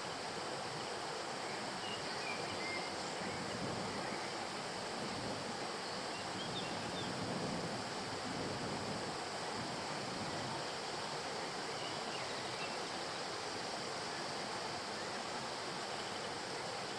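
Stream water flowing steadily with an even rushing sound, with a few faint high chirps now and then.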